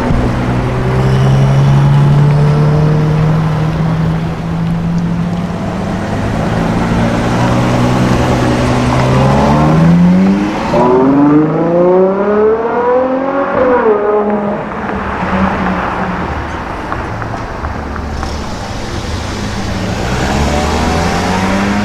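A sports car engine running steadily, then accelerating hard about nine seconds in with a steeply rising pitch, which drops sharply about fourteen seconds in before the engine carries on at lower revs.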